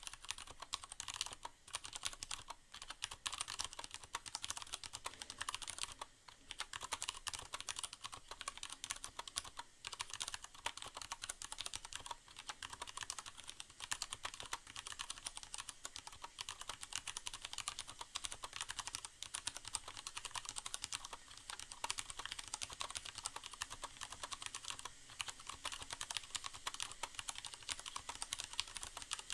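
Steady, fast typing on a Leopold FC750R mechanical keyboard with Cherry MX Brown switches and a sound-absorbing pad inside the case: a dense run of keystroke clacks with a couple of brief pauses. A soft hiss of rain sounds runs underneath.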